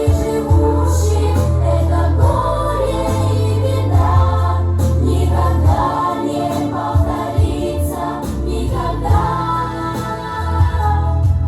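Song playing back for the dance: several voices singing a melody together over a backing track with a steady bass line.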